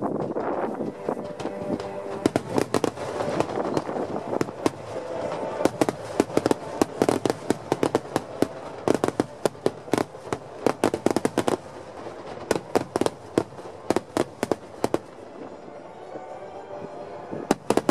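Fireworks bursting: dozens of sharp bangs in quick clusters, coming thickest through the middle and thinning out towards the end.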